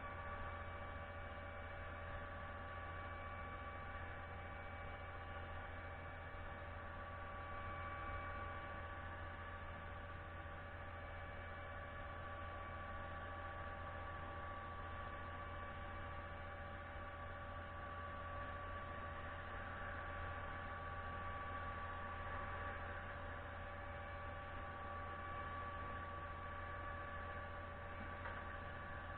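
Steady mechanical hum with several fixed tones that holds level and pitch throughout, with no strokes or changes.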